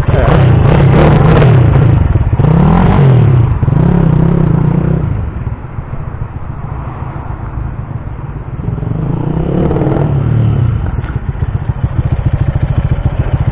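Kawasaki KSR 110 minibike's small single-cylinder four-stroke engine revving up and back down several times, then running quieter for a few seconds before revving up again about nine seconds in.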